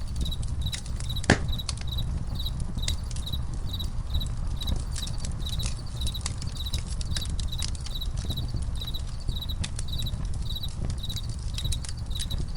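Campfire crackling with scattered sharp pops, one loud pop about a second in, over a cricket chirping steadily about twice a second and a low steady rumble underneath.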